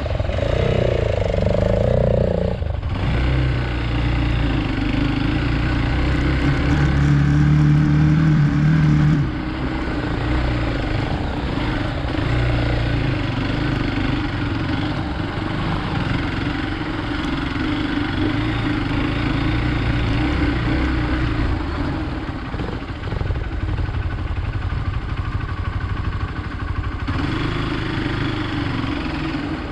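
Hero Xpulse 200 single-cylinder motorcycle engine running as it is ridden off-road, the revs rising and falling with the throttle. The engine note changes sharply about three seconds in and again at about nine seconds.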